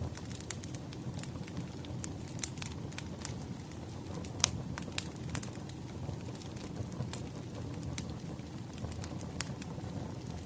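Burning firewood crackling: irregular sharp pops and snaps over a steady low rumble of the fire, one pop standing out louder about four and a half seconds in.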